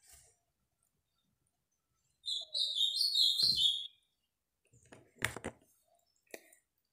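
A bird chirping a quick run of high, stepped notes for about a second and a half, starting a couple of seconds in. A few short clicks and knocks follow near the end.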